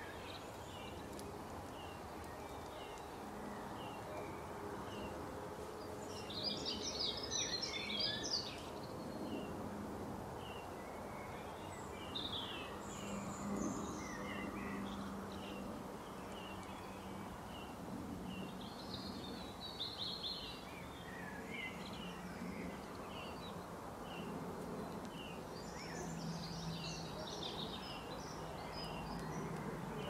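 Songbirds calling: a steady run of short high chirps, with four louder bursts of quick twittering song, over a faint low steady hum.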